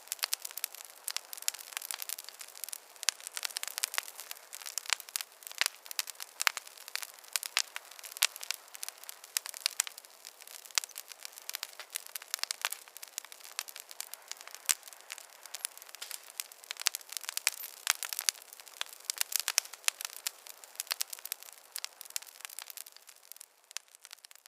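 Fireplace fire crackling: a dense, irregular run of sharp pops and snaps over a soft hiss, with no low rumble.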